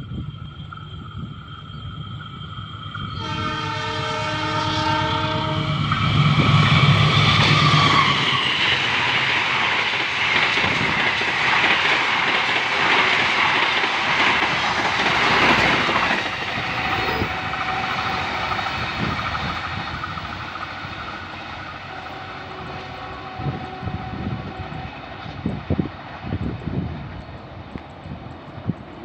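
A train sounds its horn in a few blasts as it approaches, and the horn drops in pitch as it goes by. Then comes a loud passing rumble that slowly fades, with wheels clacking over rail joints near the end.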